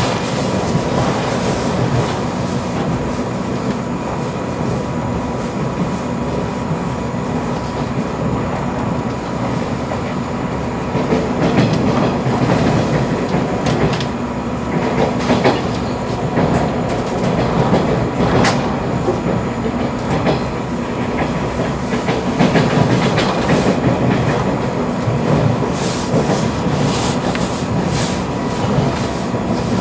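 Running noise heard from inside a 485 series electric train car at speed: a steady rumble of wheels on rail, with occasional short clicks and some louder stretches around the middle and near the end.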